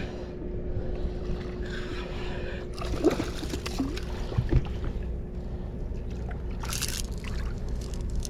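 Water sloshing against a kayak as a hooked fish is fought alongside, with a short splash about seven seconds in as the fish thrashes, trying to shake a poorly set hook.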